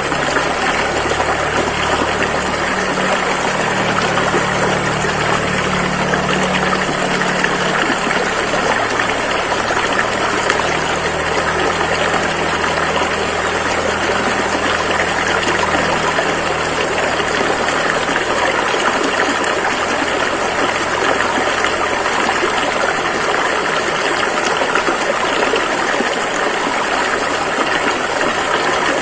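Rushing river water, a steady, even rush. A low steady hum sits underneath it and fades away over roughly the first half.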